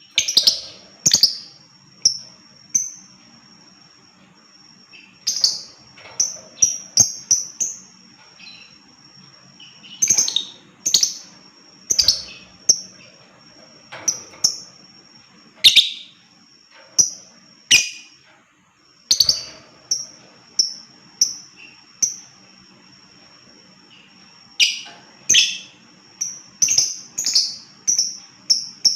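Lovebird calling in short, sharp, high-pitched chirps, in irregular clusters separated by pauses of a second or two. The calls come in a quicker run near the end.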